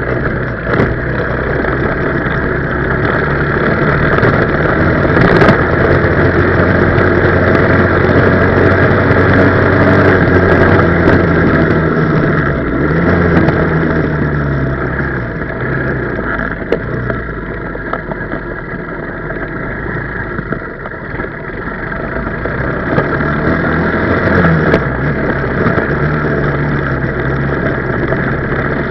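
A 125cc four-stroke pit bike engine running on a downhill ride, its pitch rising and falling as the throttle opens and closes. It eases off to a quieter stretch about two-thirds of the way through, then picks up again.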